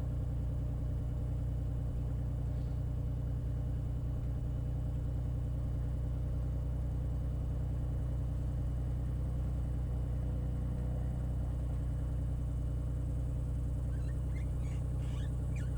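Beechcraft Bonanza's piston engine running steadily at low power, a low even drone with no change in pitch.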